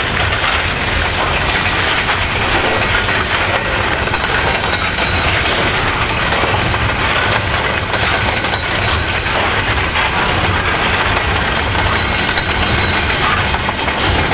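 Double-stack intermodal container well cars of a freight train rolling past: a steady rumble and clatter of steel wheels on the rails.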